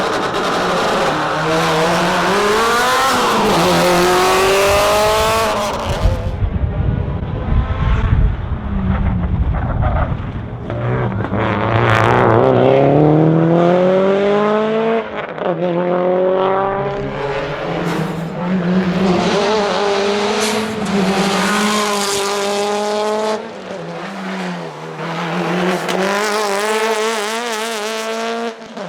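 Subaru STI S204 rally car's turbocharged flat-four engine being driven hard, the engine note repeatedly rising and falling through gear changes and lifts. A deep rumble joins in for a few seconds about six seconds in.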